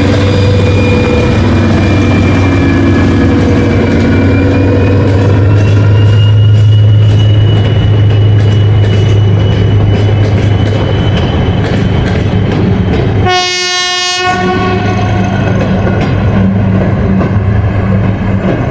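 A train passing close by, with a steady low rumble and wheels clicking over the rail joints. About 13 seconds in, a single short blast of the train horn sounds.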